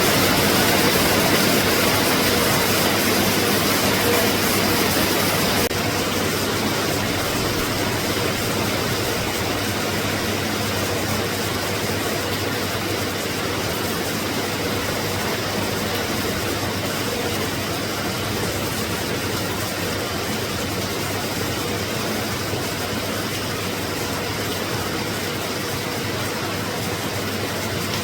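Steady hiss of rain falling on the sea, an even wash of noise with no distinct events.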